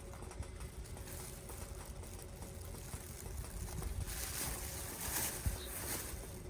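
Wood campfire burning outdoors under a low, uneven wind rumble on the microphone. A louder stretch of hissing comes from about four to six seconds in.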